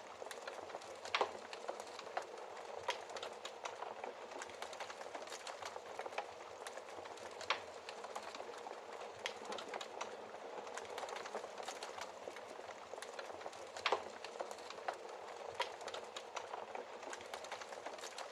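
Wood fire burning in a fireplace: a steady crackling hiss with irregular sharp pops, a few louder ones standing out.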